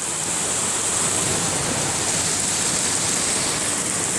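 Steady rushing of water in a heavy flooding rainstorm, an even hiss with no breaks.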